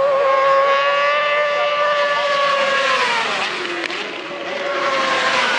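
1000cc superbike racing engines running at high revs, their pitch held steady and then dropping about three seconds in before climbing again near the end.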